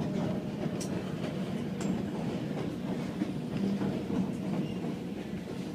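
White Pass & Yukon Route narrow-gauge passenger train rolling along the track, heard from aboard: a steady low rumble with a few faint clicks from the wheels and cars.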